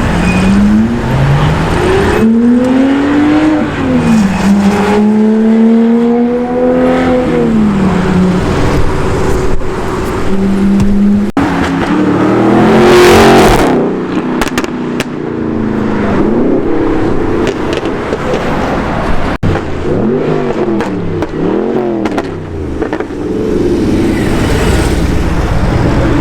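High-performance car engines revving and accelerating away, one car after another, the engine pitch climbing and falling with each blip and gear change. About halfway, one car goes by loudly in a rush of exhaust noise, and near the end another gives several quick revs in a row.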